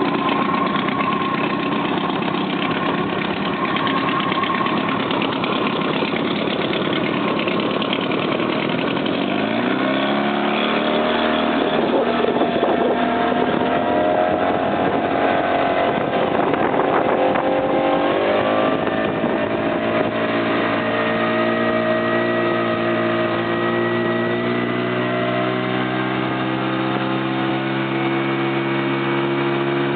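Motorboat engine running under way, its pitch rising twice as it speeds up, about a third of the way in and again past halfway, then holding steady at speed.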